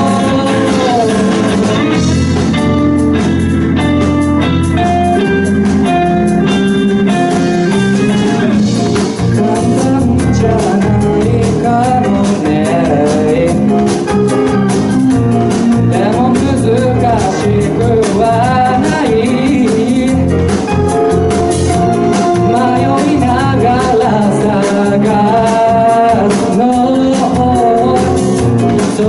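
Live band playing a J-pop song with keyboard and singing; a denser drum beat picks up about nine seconds in.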